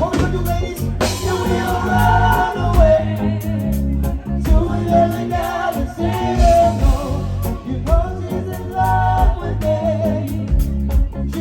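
Live band playing a song, with bass, drums, guitar and keyboard under sung vocals. The singing comes in about a second in and again near eight seconds.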